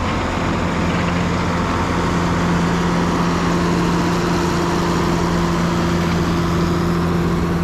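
Engine of a snow-clearing machine running steadily at a constant speed, with an even hum.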